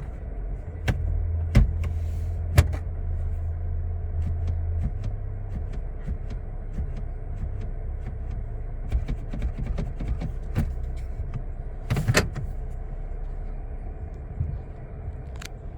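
Toyota Tundra pickup idling, heard from inside the cab as a steady low hum that is strongest for the first few seconds. Scattered sharp clicks and taps from the cab controls sound over it, with a few louder knocks, the loudest about twelve seconds in.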